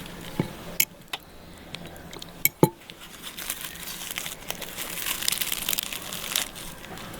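Rustling and crinkling handling noise. A few sharp clicks and knocks come in the first three seconds, then a dense crackly rustle follows.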